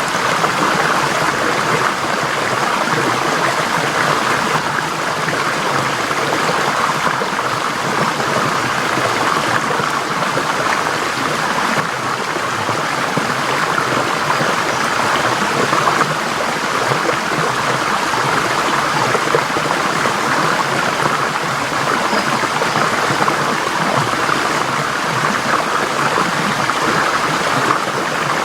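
Forest stream flowing, a steady rushing and babbling of water over stones.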